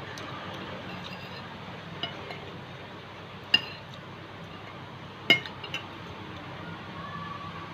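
Cutlery clinking against a dish while noodles are being eaten: four short, ringing clinks, two of them sharper and louder than the rest.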